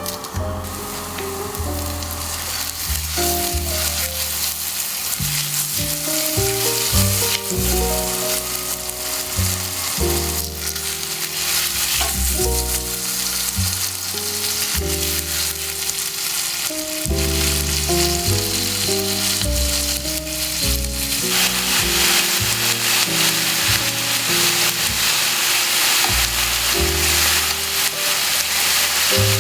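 Food sizzling as it fries in a pan, with occasional stirring; the sizzle grows louder about two-thirds of the way through. A slow melody of background music runs underneath.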